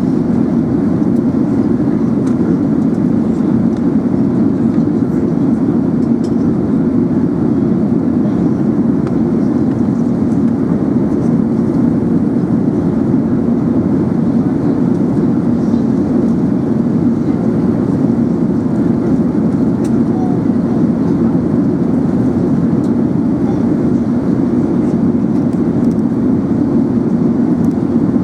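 Steady drone of airflow and engines heard inside the cabin of an Emirates Airbus A380 in flight, a deep even rush at constant level with no change.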